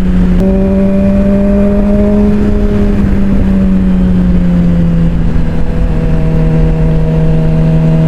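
Suzuki GSX-R600 inline-four engine running under way at a steady cruise, its note lifting slightly just after the start, then dropping a little about five seconds in and holding steady, with low wind rumble on the helmet microphone.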